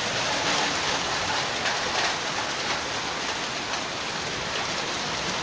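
Hail and heavy rain pelting down: a dense, steady hiss with scattered small hits.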